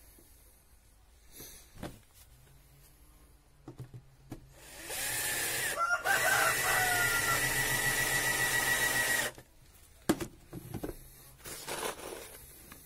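A power tool runs for about four and a half seconds, starting about five seconds in and cutting off abruptly, with a steady high whistle through it. Light knocks and handling of wooden boards come before and after.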